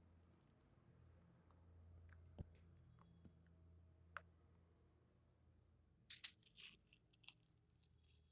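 Faint crackling and clicking of slime mixed with crunchy chocolate chips being pressed and squished, with a denser run of crackles about six seconds in, over a low steady hum that fades out partway through.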